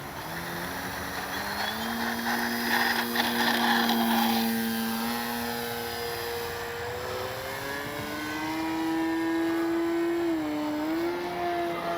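Electric RC plane's Spektrum Avian 4250 brushless outrunner motor spinning a 13x6.5 propeller, with no spinner fitted, throttling up for takeoff. It gives a steady whine that steps up in pitch in the first second, rises again about midway and dips briefly near the end, with a rushing noise for a few seconds early on.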